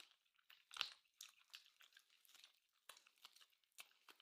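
Faint close-miked chewing: irregular small crunches and wet mouth clicks, with a slightly stronger crunch near the start.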